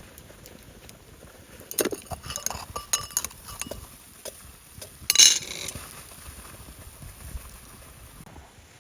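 Camp cookware and utensils being handled, with a run of light clinks and knocks and then one louder clink about five seconds in.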